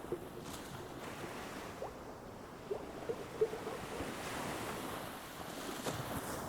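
Ocean waves breaking on a beach: a steady rush of surf that swells to its strongest a little past halfway, with a few short ticks in it.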